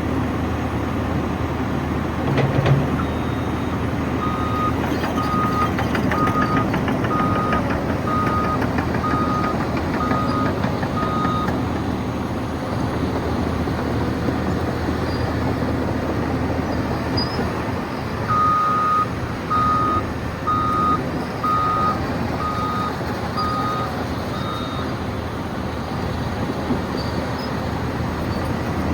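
Cat 963 track loader's diesel engine running steadily as it works, with a knock about two seconds in. Its reversing alarm beeps about once a second in two runs of seven or eight beeps each as the loader backs up.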